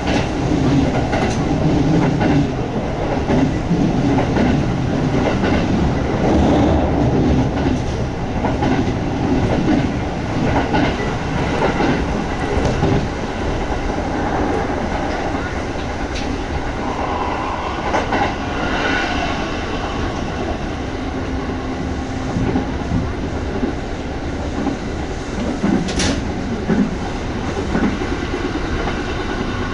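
Kintetsu 1200-series electric train running at speed, heard from inside the car: a steady rumble of wheels on rail with rhythmic clatter over the rail joints. A single sharp clack comes near the end.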